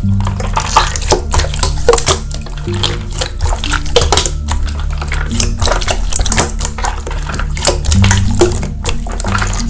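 Background music with a low held bass line, under a dense run of wet clicking and squishing from slime being pressed and stretched by hand.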